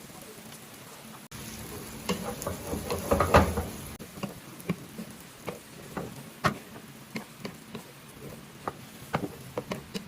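Chopped tomatoes going into a hot frying pan of sautéing onions and garlic, with a loud burst of sizzling and scraping about two to three seconds in. Then a utensil stirring in the pan in irregular taps and clicks against it.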